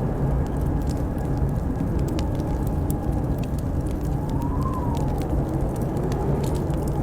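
Wood fire crackling with scattered sharp pops over a steady rush of blizzard wind. About four seconds in, the wind howls in a rising-then-falling whistle.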